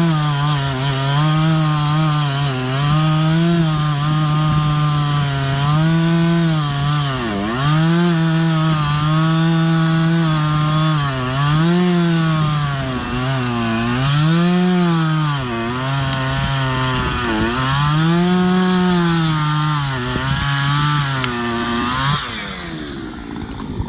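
Gasoline chainsaw cutting through a thick log under load, the engine note sagging as the chain bites and recovering, over and over. The engine pitch drops away near the end.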